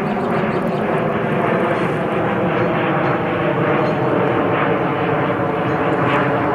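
Airplane jet engine noise: a loud, steady drone with several held tones, keeping the same pitch and level throughout.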